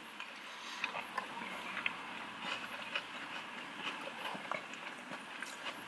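Faint chewing of battered fish, with small scattered crunches over a low hiss.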